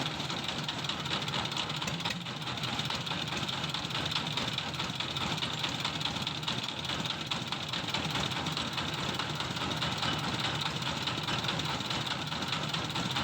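Motorised corn sheller running steadily.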